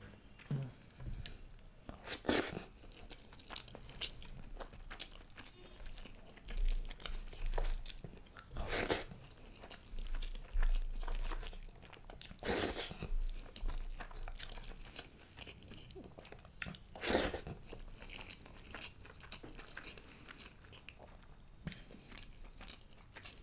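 Close-miked chewing of a mouthful of mutton curry and basmati rice, with wet mouth clicks and lip smacks. A few sharper, louder smacks stand out now and then.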